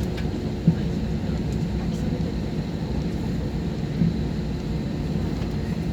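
Steady low cabin rumble of an airliner rolling on the ground just after landing, with two brief thumps, one about a second in and one about four seconds in.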